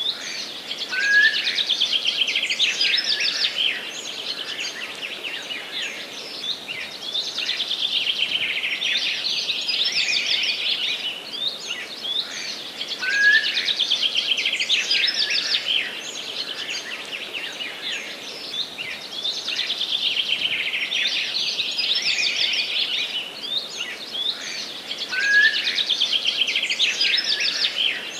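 A songbird singing the same phrase about every six seconds, five times in all: each phrase lasts about two and a half seconds, is a dense run of rapid high notes, and opens with a short rising note. A faint steady hiss of forest ambience lies underneath.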